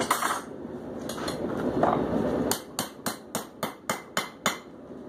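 A blacksmith's hammer strikes a roundish flat punch held on hot steel at the anvil, about eight sharp blows at roughly three a second, starting about halfway in. Before the blows there is a steady rushing noise.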